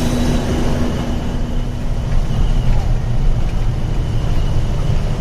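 A truck's engine running and road noise rumbling, heard from inside the cab while driving; a steady hum in it stops about two seconds in.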